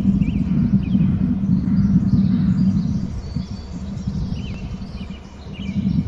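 Small birds chirping in short, repeated upswept notes over a loud, steady low rumble. The rumble fades somewhat past the middle and swells back near the end.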